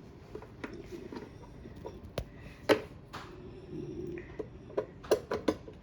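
Scattered light clicks and knocks of metal parts and tools being handled while refitting a clothes dryer's motor, with the sharpest knock about two and a half seconds in and a quick run of clicks near the end.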